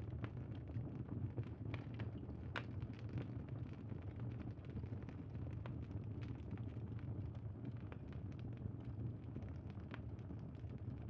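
Bonfire crackling: a steady low rumble with scattered sharp pops and crackles.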